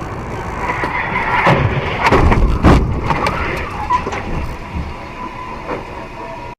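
Road vehicle collision: steady engine and tyre noise, then a run of loud crashing impacts about one and a half to three seconds in, with smaller knocks and rattles after.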